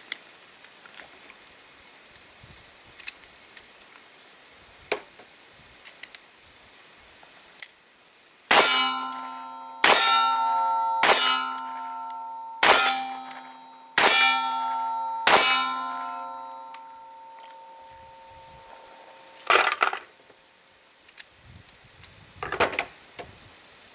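Revolver firing Winchester small pistol primers single action: six sharp strikes about a second and a half apart, each ringing out metallically, with every primer firing. A few light clicks come before them.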